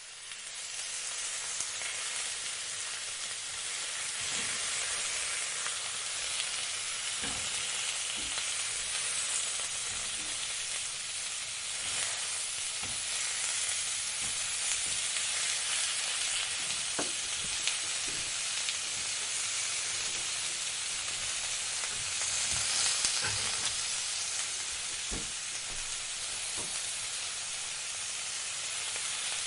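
Food frying in a hot pan: a steady sizzle with a few faint pops scattered through it.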